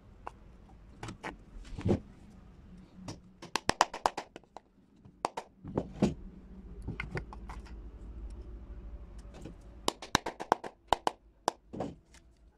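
A series of sharp clicks and knocks of hard objects being handled, some in quick rattling runs, over a faint low hum.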